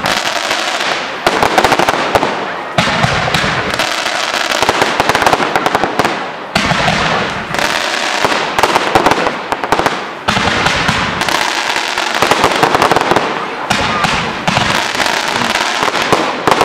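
Fireworks battery firing red and green comets with crackling stars: a dense, continuous crackle of many small pops, with a fresh loud volley starting every few seconds.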